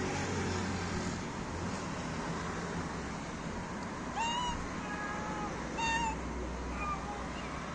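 A cat meowing: four short, high calls in quick succession starting about halfway through, the last one fainter, over a steady low hum.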